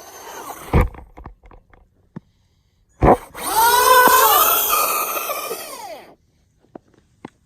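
Traxxas Rustler 2WD RC truck's electric motor and drivetrain whining loudly, rising and falling in pitch as the throttle is worked, for about three seconds in the middle. The whine is preceded by two sharp thumps, one about a second in and one about three seconds in.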